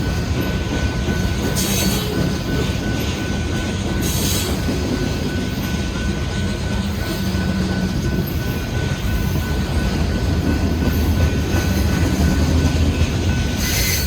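Union Pacific freight train rolling past: a steady rumble of wheels on rail under a thin, steady high squeal. Brief high rushes come about two and four seconds in and again near the end.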